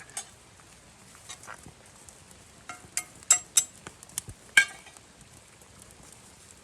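Irregular light clinks and knocks of tableware during a meal, some with a short ringing tone. The sharpest come in a quick cluster about three to four and a half seconds in.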